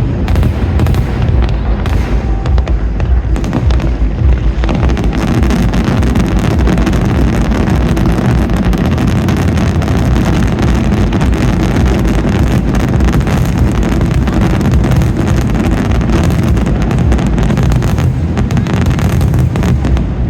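Aerial fireworks display bursting in a dense, continuous barrage: rapid overlapping booms of shells with crackle, thickening a few seconds in and holding loud throughout.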